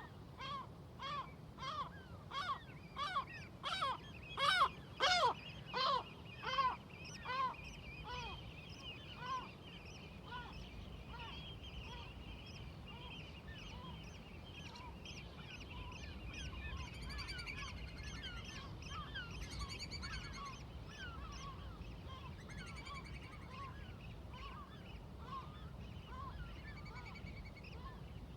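Seagulls calling: one gull gives a run of loud repeated calls, about two a second, that swell and then fade within the first ten seconds, followed by a flock of many birds calling over one another in a higher-pitched chatter. A low steady rumble runs underneath.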